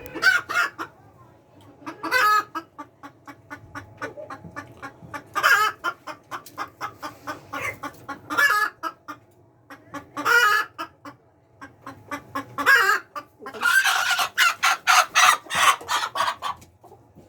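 Layer hens clucking, with a loud call every two to three seconds and a longer run of loud calls near the end.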